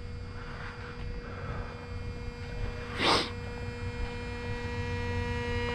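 A steady electrical hum of several evenly spaced tones, slowly growing louder, with one short burst of noise about three seconds in.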